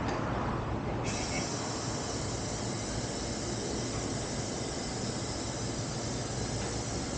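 Truck engine idling steadily through an aftermarket exhaust: a low, even rumble with a hiss over it that gets brighter about a second in.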